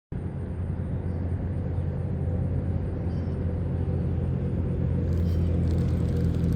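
A steady, low engine drone with several constant hums running under it, starting abruptly; faint light crackles join in near the end.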